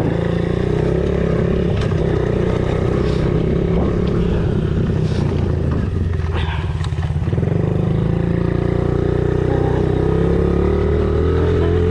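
Honda CRF50 pit bike's small four-stroke single-cylinder engine running on the throttle during a lap. Around the middle it backs off for a couple of seconds, then pulls again steadily.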